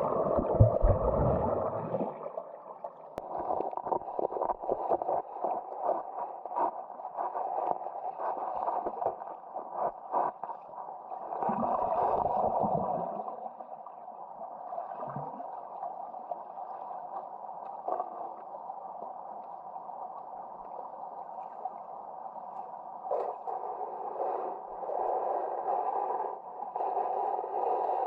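Valley stream water gurgling, muffled and steady, with scattered small clicks and knocks. It swells louder at the start and again about twelve seconds in.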